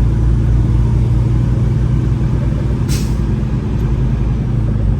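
Semi-truck's diesel engine running steadily, heard from inside the cab, with a short hiss about three seconds in.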